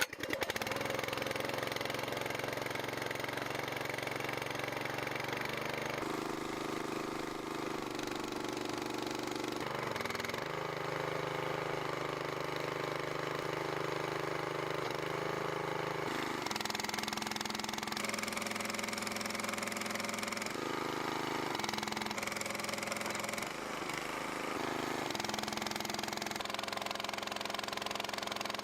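The 200cc small engine of a hydraulic log splitter's power unit running steadily, its note shifting every few seconds.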